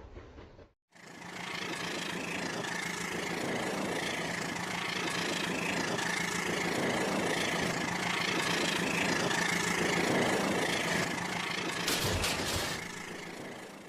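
Battery-powered toy train running on its track, its small motor giving a steady whir with a constant high whine, a few sharp clicks near the end.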